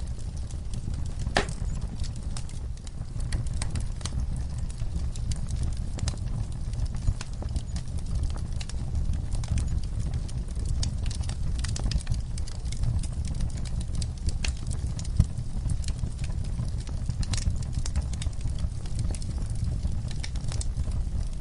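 Wood fire burning with a steady low rumble and irregular crackles and pops, the sharpest pop about a second and a half in.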